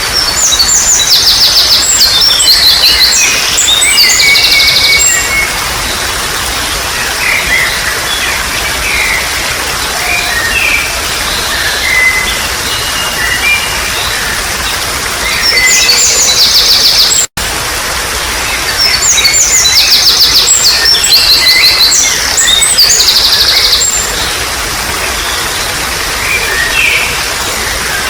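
Songbirds singing loud phrases of fast, repeated high notes over the steady rush of trickling water. The song comes in bursts, in the first few seconds and again in a longer stretch past halfway, with a split-second cut to silence just before it.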